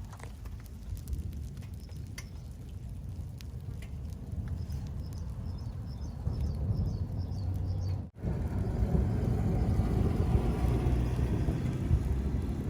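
Rain falling with a low rumble of thunder. A bird calls in a quick run of high chirps about five seconds in. The sound cuts out for an instant about eight seconds in, and after that the rain is louder.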